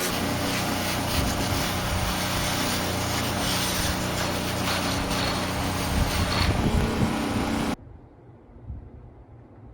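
A motorized tool running with a steady hum under a loud hiss, stopping abruptly about three-quarters of the way through; a faint low background follows.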